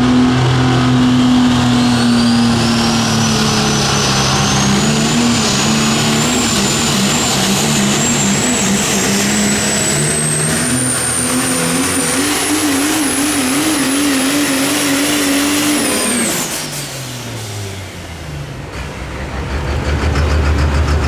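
Super stock diesel pulling truck running flat out under load down the track, with a high turbo whistle that climbs steadily in pitch. About 16 s in, the throttle is cut at the end of the run: the engine and the whistle fall away together.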